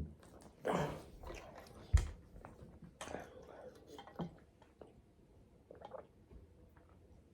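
Close-miked chewing and lip-smacking mouth sounds, with a sharp knock about two seconds in.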